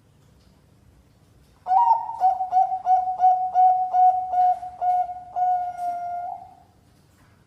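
Zebra dove (perkutut) of the Bangkok song type cooing: after a short pause, a quick run of clipped coos at one pitch, about three a second, closing on a longer drawn-out note.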